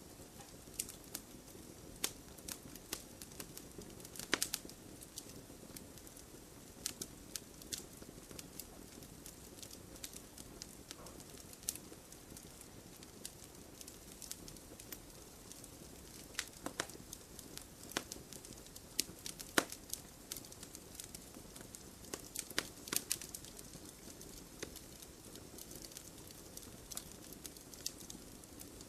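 Campfire burning, wood crackling and popping at irregular intervals over a steady low hiss of the flames.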